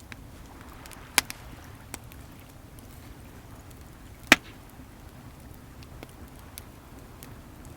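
Wood fire crackling, scattered small ticks with two sharp pops, one about a second in and a louder one just past four seconds, over a steady wash of sea waves.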